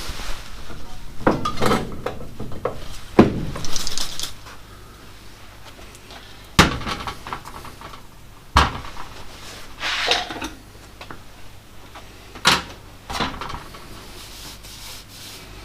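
Intermittent clinks and knocks of hard parts and tools being handled and set down, with a few short rustles, while an oil filter is being swapped.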